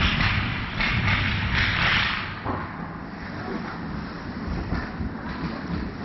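Ice hockey rink game noise: hissing scrapes of skates on the ice in the first two seconds over a steady low rumble, then quieter rumble.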